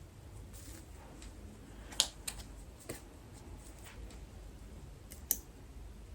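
Scissors snipping through braided hair extensions: a few sharp, scattered snips, the loudest about two seconds in and another a little after five seconds.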